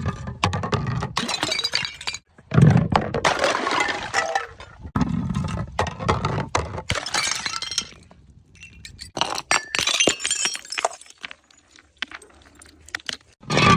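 Glass bottles smashing, one after another: about four separate breaks a few seconds apart, each a heavy thud followed by a dense clatter and tinkle of scattering glass shards.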